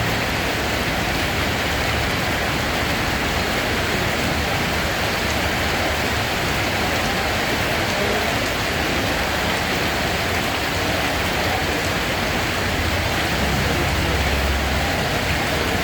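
Steady rain falling, an even, continuous hiss of drops on surfaces. A low rumble swells briefly near the end.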